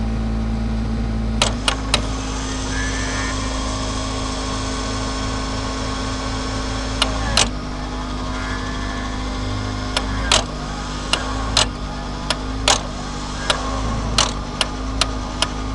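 Steady mechanical hum from a vehicle winch setup, broken by a series of sharp clicks or knocks at irregular intervals, several in quick pairs and clusters. The winch's cable is jammed.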